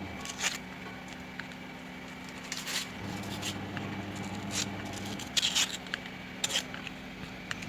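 Dry appalams (papads) being handled and put into a bowl of water to soak: scattered short, crisp crackles and clicks, a cluster of them about five and a half seconds in.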